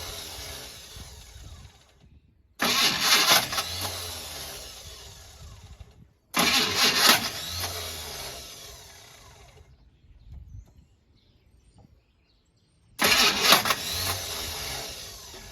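Chevrolet El Camino engine being cranked in three separate start attempts, each coming in suddenly, loud for about a second, then fading away over a few seconds without the engine staying running: the car won't start.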